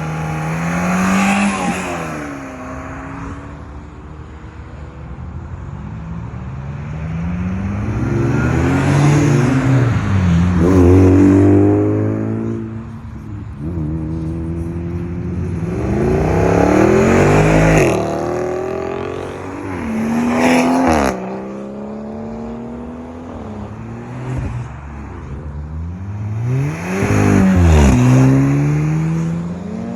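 About five cars accelerating away one after another, each engine rising in pitch as it revs and swelling loud as it passes. Near the end one passes close, its engine note rising then falling sharply as it goes by.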